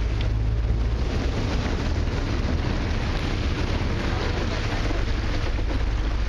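Tour boat under way: its engine running with a steady low rumble, and wind buffeting the microphone.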